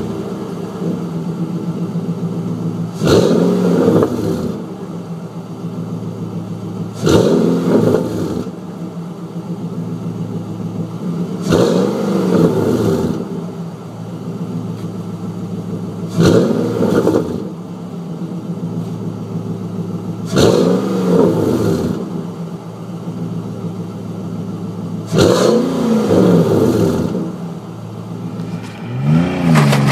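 Car engine idling and revved six times in a row through its exhaust, each blip rising and falling back to idle over about a second, roughly every four to five seconds.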